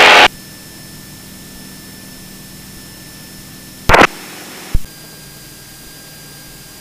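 Cessna 172's engine as a steady, faint hiss and hum heard through the cockpit intercom. About four seconds in it is broken by a brief loud burst of static and then a single click.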